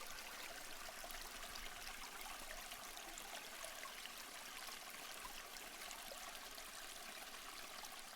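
Faint, steady sound of running water like a small stream, with fine crackling specks throughout.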